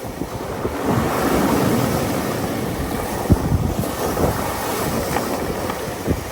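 Waves of a rough sea washing in, with wind buffeting the microphone in low thumps, the strongest about three seconds in and again near the end.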